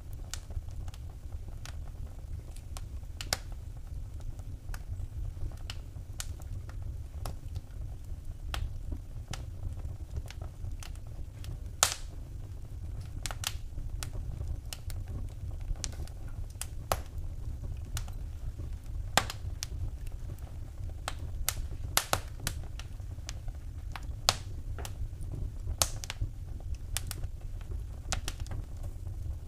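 Wood fire in a fireplace crackling: irregular sharp pops and snaps, a few louder than the rest, over a steady low rumble of the burning fire.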